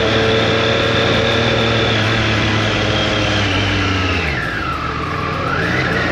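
Motorcycle engine running at steady revs. About four seconds in, the revs fall away as it slows, then climb again near the end.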